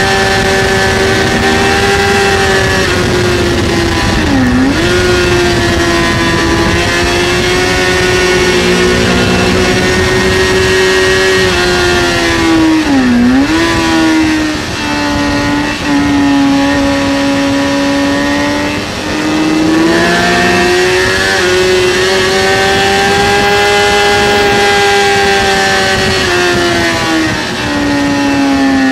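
2003 Kawasaki ZX-6R inline-four sport-bike engine running hard at high revs on track, heard from the rider's seat. Its pitch dips sharply and comes back twice, about four and thirteen seconds in, runs lower for a while, then climbs and falls again near the end.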